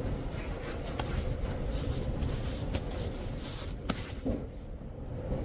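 Scattered light clicks and scrapes of a hand tool working the rear axle bearing adjuster nut, over a steady low rumble.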